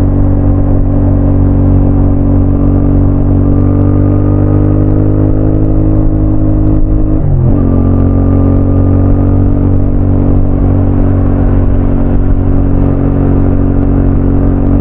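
CFMoto 450NK parallel-twin motorcycle engine pulling under steady throttle, its revs climbing slowly. About seven seconds in the revs drop sharply with an upshift, then the engine runs on steadily at the lower revs.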